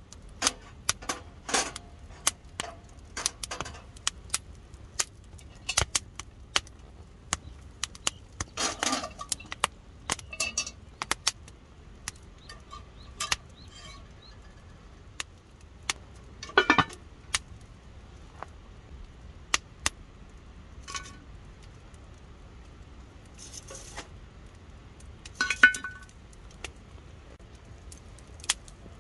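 Irregular sharp clicks and metallic clinks of cooking utensils handled against cookware, some with a brief ring; a few louder clatters come near the middle and toward the end.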